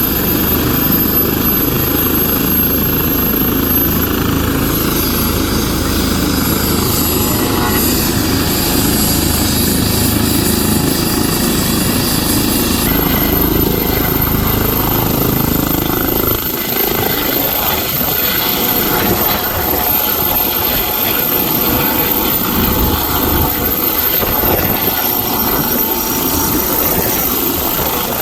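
Helicopter running steadily, a dense loud noise with a thin high whine over it; the deepest part of the noise drops away about halfway through.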